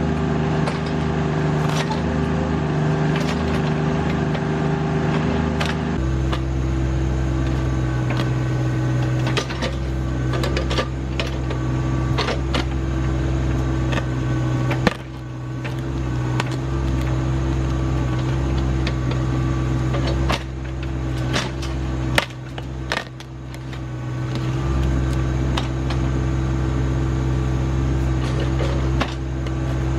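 Rural King RK25 subcompact tractor engine running steadily under work, with scattered clanks and knocks. The engine note drops abruptly about six seconds in, and the level dips briefly a few times later on.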